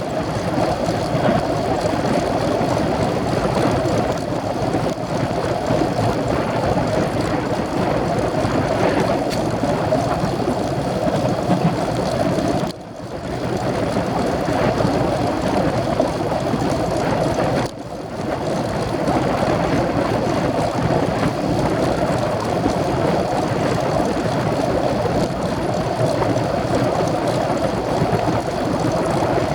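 Steady wind rushing over the camera microphone while riding a road bike. It dips sharply twice, briefly, in the middle.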